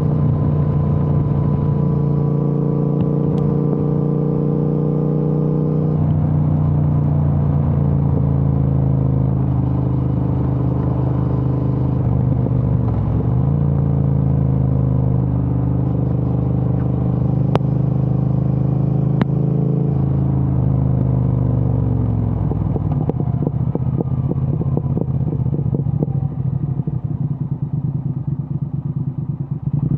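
Triumph Speed Twin 1200's parallel-twin engine through a Vance & Hines aftermarket exhaust, running steadily under way. The pitch dips briefly about halfway through, then the revs drop about two-thirds of the way in and the exhaust settles into a low, uneven, lumpy beat.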